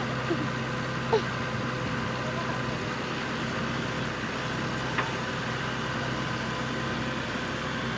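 Heavy machine's engine running with a steady drone, with a short chirp about a second in and a faint click about five seconds in.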